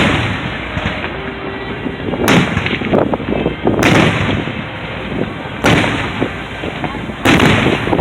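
Aerial fireworks shells bursting: about five sharp booms, each a second or two apart, each trailing off in a rumbling echo.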